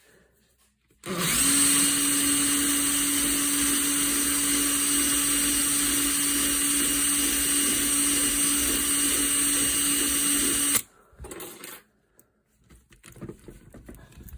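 Cordless drill running at one steady speed for about ten seconds, spinning a screw held in its chuck while it is worked to shape; it starts about a second in and cuts off suddenly, followed by a few faint clicks.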